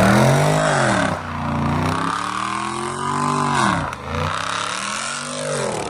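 Car engine revved hard about three times, its pitch climbing and falling back with each rev.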